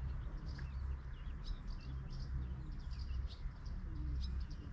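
Birds chirping in many quick short calls over a steady low rumble.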